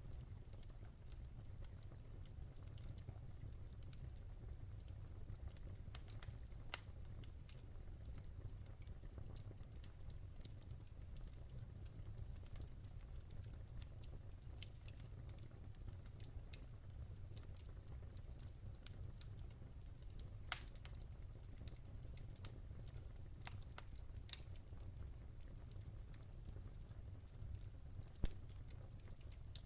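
Campfire crackling: a steady scatter of small snaps and pops over a low rumble, with a few louder pops, the sharpest about two-thirds of the way through and another near the end.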